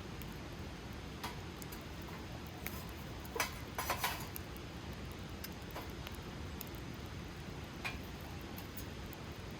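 Wood campfire crackling: scattered sharp pops and snaps over a low, steady rush from the burning fire, with a quick cluster of louder snaps near the middle.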